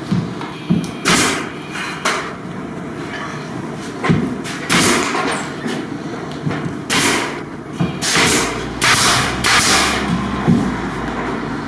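Nail gun firing about six times, irregularly with several shots close together near the end, fixing wooden reinforcing blocks into the ceiling beside a light's wire.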